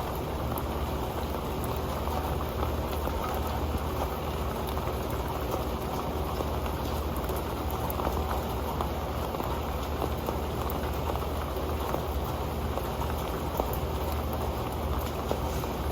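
Steady rain falling onto an old pan: a dense patter of drops with scattered sharper ticks.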